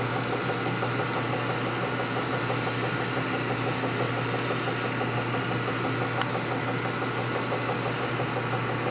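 Steady running of a shop machine's motor with a fast, even chatter, as a metal part is worked with abrasive stones.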